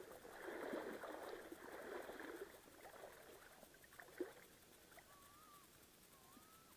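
Faint water sloshing and splashing for the first couple of seconds, then near silence with a soft click and two faint wavering whistle-like tones near the end.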